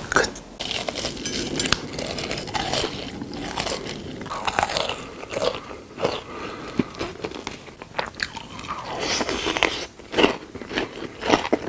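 A person biting and crunching food close to the microphone, with chewing and many sharp crackly crunches throughout.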